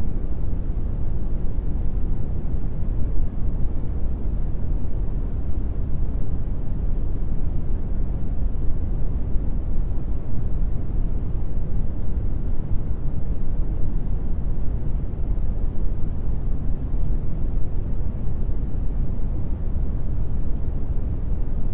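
Steady brown noise: an even, deep rumbling hiss, heaviest in the bass and fading toward the treble, with no change throughout.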